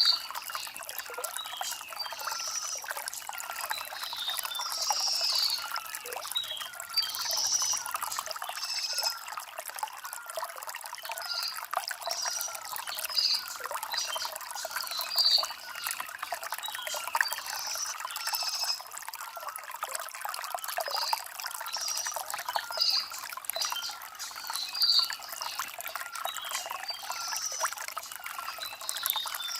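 Shallow stream trickling and babbling over river stones, with a bird chirping repeatedly above it every second or two.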